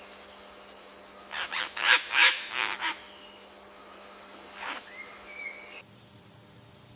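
A bird giving a quick series of about six harsh calls, then a single fainter call and a short rising whistle, over a steady high jungle insect hum. The background changes abruptly near the end.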